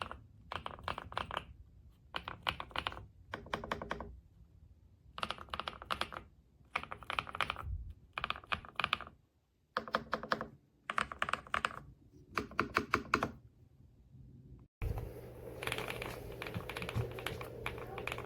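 Typing on a Kisnt gasket-mounted mechanical keyboard with linear switches: runs of rapid keystrokes separated by short pauses. The typing stops a little before the end, and a steady low hum with some rustling follows.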